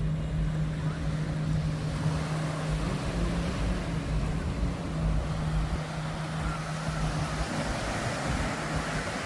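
A steady low engine hum, with a broad rushing noise swelling over several seconds and falling away near the end.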